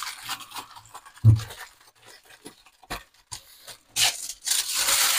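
Aluminium foil crinkling and scraping as it is folded around food into a wrapped bundle, with a dull thump about a second in and a denser stretch of rustling near the end.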